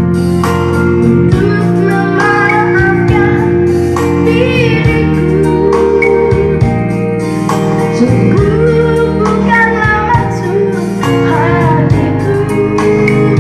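Pop song: a child singing a melody over a band with guitar.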